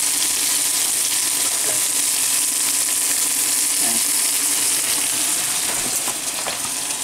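Breaded pollock fillets frying in hot oil in a pan, a steady crackling sizzle that gets a little quieter near the end.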